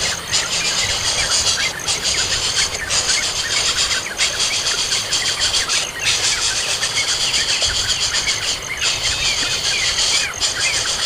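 Many short bird chirps over a steady high-pitched buzz that drops out briefly every second or two.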